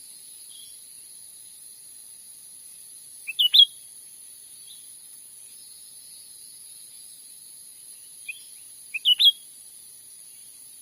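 Cucak ranting calling: two short phrases of three or four quick, high chirps, about six seconds apart, over a steady high insect drone.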